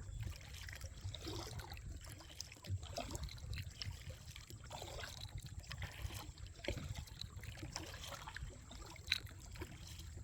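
Kayak paddling: the paddle blades dip and water trickles and drips off them in an uneven patter of small splashes. There is a single sharp knock about nine seconds in.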